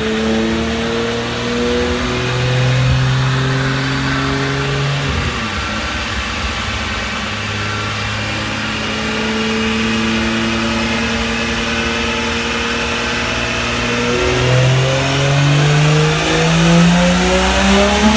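Turbocharged BMW N54 3.0-litre inline-six in a 335i, running at fairly steady revs that drop about five seconds in, then climbing hard under acceleration over the last few seconds.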